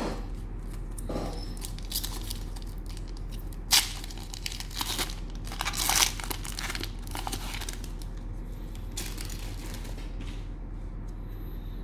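Cellophane wrapper of a trading-card cello pack crinkling and tearing as it is opened, in irregular bursts, the loudest about 4 and 6 seconds in.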